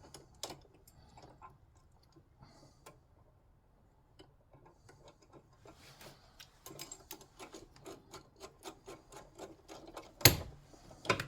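Light metallic clicks and taps from battery terminal hardware and hand tools being fitted. From about six seconds in comes a run of regular ticks, a few a second, and two sharp, louder clicks come near the end.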